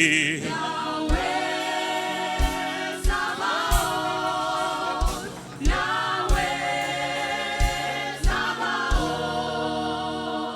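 Choir singing a slow gospel worship song, with occasional low drum hits under the voices. The singing fades away near the end.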